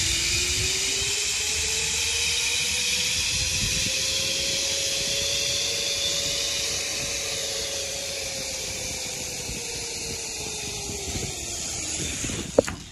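Zipline trolley pulleys running along the steel cable at speed: a steady hiss with a whirring tone that rises in pitch over the first half and falls away as it slows. A sharp click near the end.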